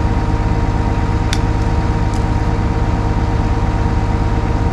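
Caterpillar M322D wheeled excavator's diesel engine idling steadily.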